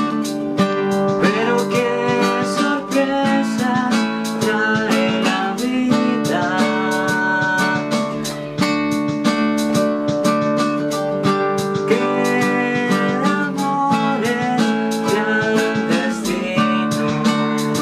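Music played on acoustic guitar: steady strummed chords with a plucked melody line gliding over them.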